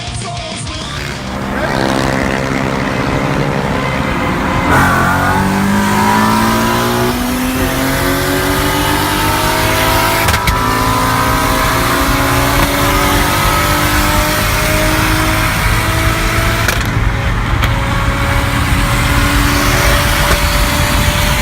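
Performance car engine accelerating hard: the revs climb from about two seconds in, drop at a gear change near five seconds, then rise slowly and hold at high speed.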